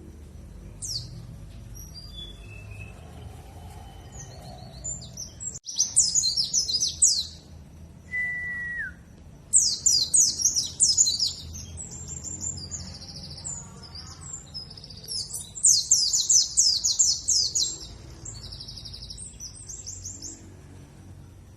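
Pleci dakun (white-eye) singing a lure song in bursts of rapid, high-pitched twittering trills. A single short whistled note, steady then dropping, comes about 8 seconds in.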